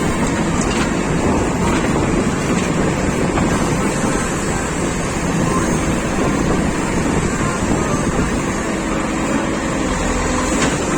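Manitou TLB 740 S backhoe loader's diesel engine running steadily, heard from inside the cab.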